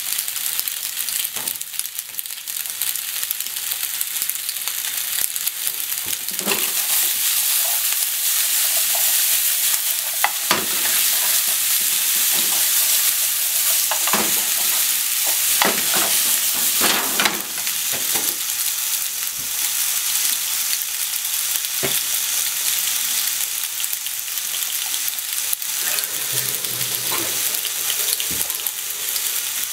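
Macaroni and sliced onion sizzling in a hot frying pan as they are stir-fried, with scattered knocks and scrapes of chopsticks tossing the food against the pan.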